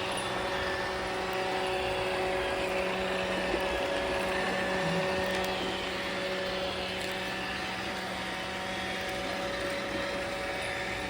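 iRobot Roomba robot vacuums running together: a steady motor hum with a few held tones over the hiss of the brushes and suction.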